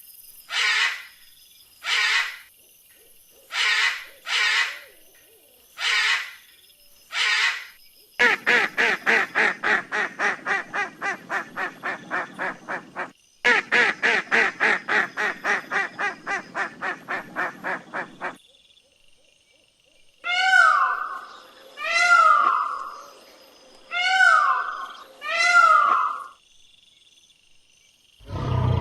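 Three different animal calls one after another: first short calls in pairs, then long runs of rapid pulsed calls at about four a second, then four loud calls that each fall in pitch.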